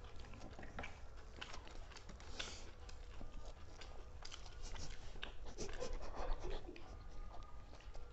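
People eating fast: chewing and mouth noises with heavy breathing and scattered small clicks.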